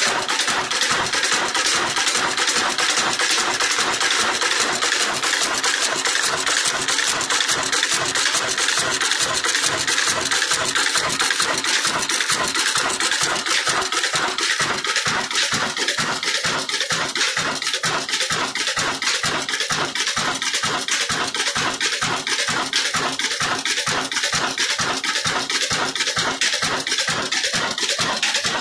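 Old Ruston Hornsby stationary diesel engine running steadily under load, driving a chakki flour mill. Its fast, even exhaust beat sits under the continuous grinding noise of the mill.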